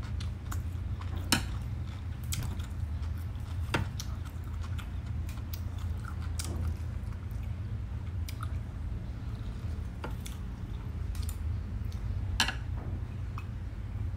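Close-miked chewing of crunchy food, with three sharp crunches standing out over a steady low hum.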